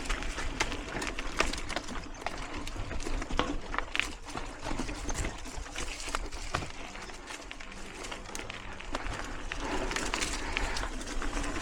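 Mountain bike rolling over a rocky dirt singletrack: steady tyre and wind noise with scattered sharp clicks and rattles from the bike over rocks.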